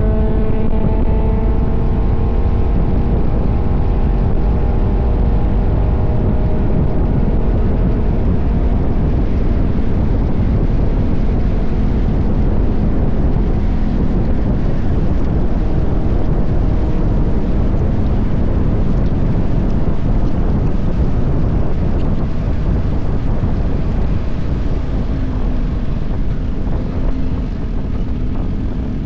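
KTM 1190 Adventure's V-twin engine running at road speed, with heavy wind rush on the microphone. The engine note is clear at first, is then mostly buried under the wind, and the wind eases near the end so the engine shows through again, a little quieter.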